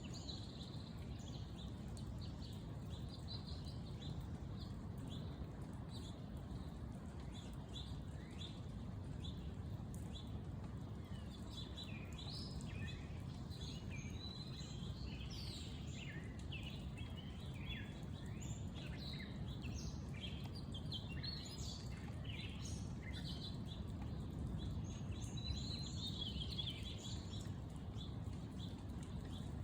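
Birds chirping and singing, many short calls that thicken after the first several seconds, over a steady low rumble.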